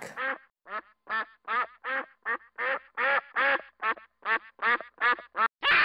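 Ducks quacking: a steady run of short quacks, about two to three a second.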